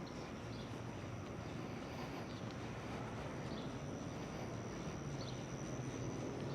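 Summer evening ambience: a steady high-pitched insect drone over a low rumble of distant traffic, with an engine hum growing louder near the end.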